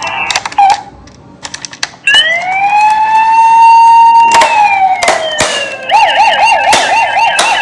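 Electronic siren of a toy emergency vehicle: a wail that rises about two seconds in, holds, then falls, and switches to a fast warbling yelp near the end. Short clicks and knocks come before and during it.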